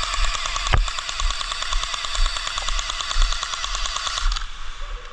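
Airsoft electric gun firing one long full-auto burst, a fast, even rattle of shots that stops abruptly about four seconds in.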